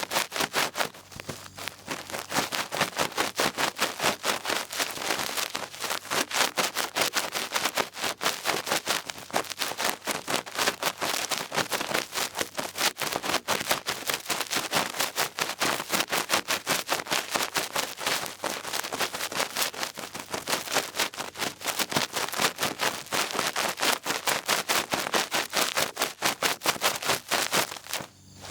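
Ear-twirling stick scratching and rubbing right against the microphone in quick, dense strokes, several a second, as ear-cleaning ASMR. It stops abruptly shortly before the end.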